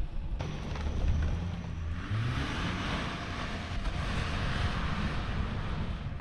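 Car engine running under throttle, its pitch rising about two seconds in, with a steady rushing noise over it, as a stuck all-wheel-drive car tries to pull itself free.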